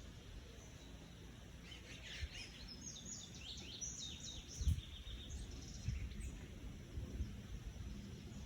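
A bird calling: a rapid, chattering series of high chirps lasting about three seconds, starting about two seconds in. A few low thumps come through underneath.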